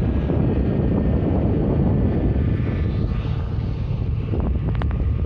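Blizzard wind blowing across the phone's microphone, a steady low rushing noise, with a few faint clicks near the end.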